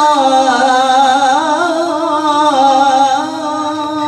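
A qari's voice in melodic Quran recitation (tilawah), drawing out one long ornamented melisma with the pitch bending and wavering up and down.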